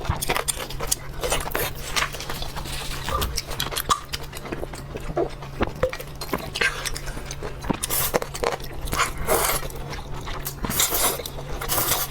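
Close-miked eating sounds: irregular chewing, crunching and mouth smacks with many short clicks, over a low steady hum.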